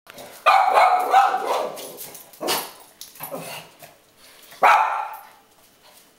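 Pet dogs barking to warn off cats seen on the window sill: a quick run of loud barks, a few single barks, then one last loud bark before they fall quiet.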